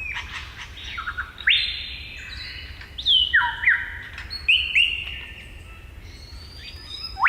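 Superb lyrebird singing its mimicry song: a run of loud whistled notes and downward-sweeping calls with some held tones, ending in a sharp rising whistle.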